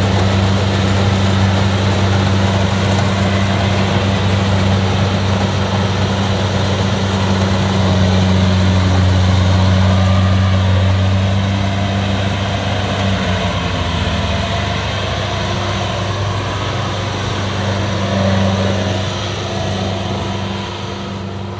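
Kubota DC70 combine harvester's diesel engine running steadily under load with a constant low hum, easing off slightly near the end.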